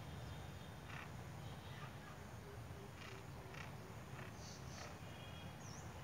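Birds chirping in scattered short calls, with a few higher whistled notes in the second half, over a low steady rumble.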